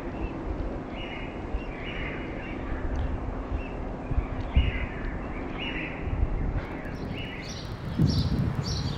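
Birds chirping, short calls repeated every second or so, over a steady low outdoor rumble. Near the end the chirps are higher-pitched and the rumble grows louder.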